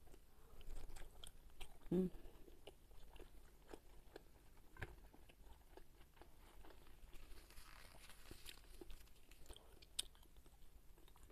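Faint chewing of fried carp: small crunches and wet mouth clicks, with a short hum of the voice about two seconds in.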